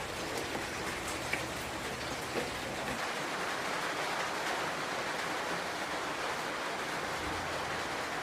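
Steady rain falling, an even hiss with an occasional louder drip.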